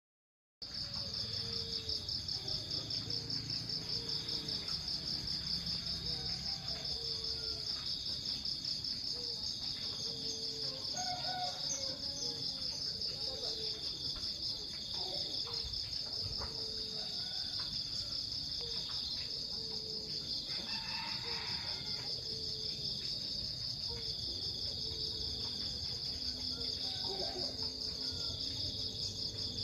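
A continuous high-pitched insect chorus, a dense fast-pulsing trill, with fainter lower calls repeating underneath.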